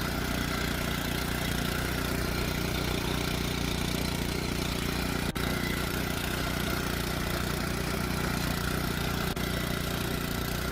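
Beomyang VP-225B walk-behind cultivator's four-stroke gasoline engine running steadily.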